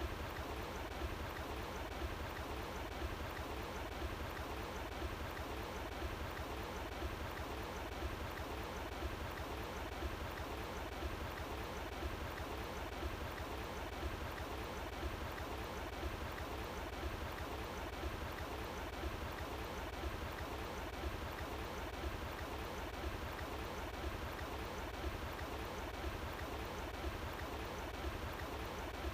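Stream water running and babbling steadily, an even rushing wash.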